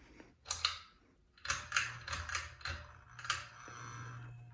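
Ceiling fan pull-chain switch clicking about nine times, then the fan motor starting with a low steady hum from about one and a half seconds in.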